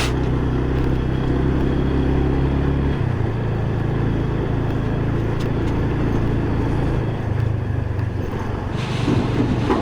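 Motorcycle engine running at steady low revs while riding a rough off-road track, over wind and road noise. The engine note shifts about three seconds in.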